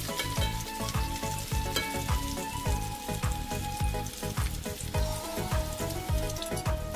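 Food frying and sizzling in a pan, with fine crackling, under background music that has a steady beat and a simple melody.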